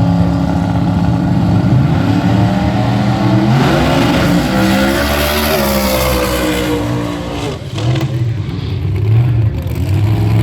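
Drag racing vehicle engines running loudly. About four seconds in, one revs up and goes past, its pitch rising and then dropping, before the engines settle back to a lower, steadier running note.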